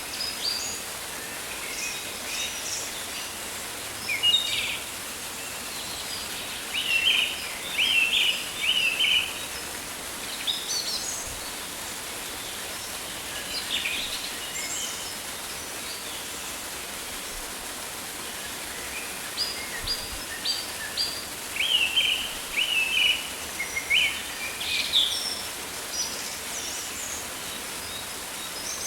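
Rainforest ambience: birds chirping in scattered short bursts over a steady background hiss.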